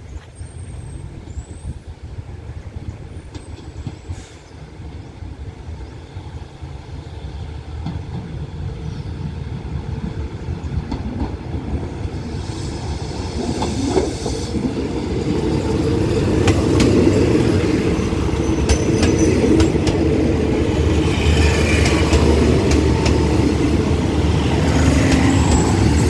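Diesel multiple-unit train approaching and pulling into the station, growing steadily louder over the first half and then staying loud. The diesel engine runs and the wheels click over the rail joints as the cars roll past close by.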